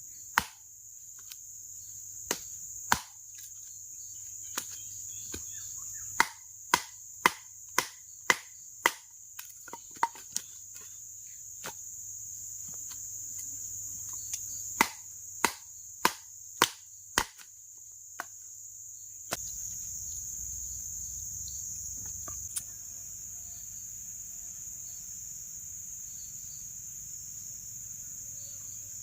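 Steady high-pitched chorus of night insects at a forest edge. Over the first half comes a run of sharp knocks, up to about two a second, which stops a little past halfway, with one more knock later.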